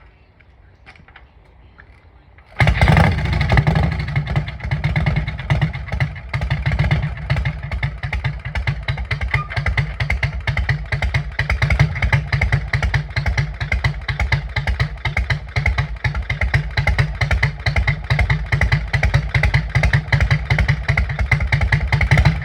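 Harley-Davidson Shovelhead V-twin catches suddenly about two and a half seconds in. It then idles with a steady, rhythmic beat of low exhaust pulses.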